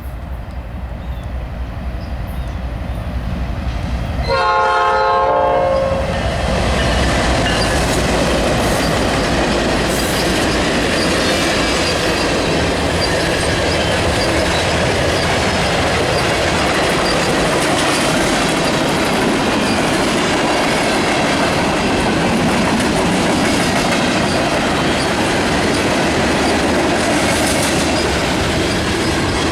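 Canadian National manifest freight train approaching with a rising rumble, its locomotive giving a short horn tap about four seconds in. The freight cars then roll past with steady wheel clatter on the rails.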